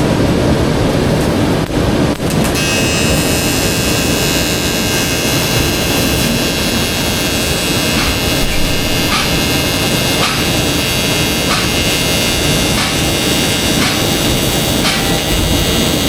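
Arc welding: a steady, loud crackling hiss from the welding arc, with a steady whine joining about two and a half seconds in.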